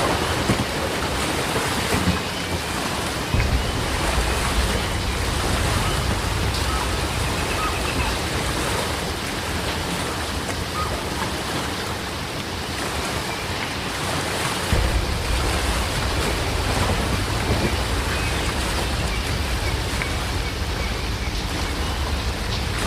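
Heavy rain falling steadily, with a few faint short bird chirps here and there. A deep low rumble comes in about three seconds in and again about fifteen seconds in, running on under the rain.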